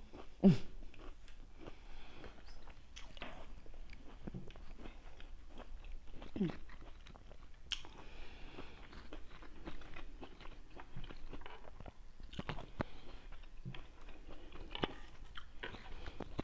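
Someone chewing and biting fresh fruit, with repeated short crunches and wet mouth clicks, and a brief hum twice.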